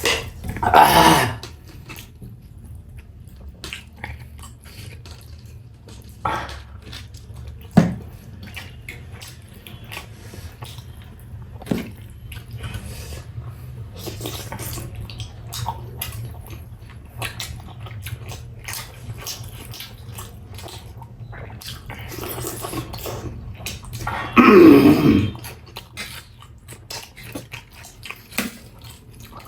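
Close-miked eating sounds: chewing, smacking and small wet clicks over a low steady hum. Two loud noisy bursts stand out, about a second in and again about 25 seconds in.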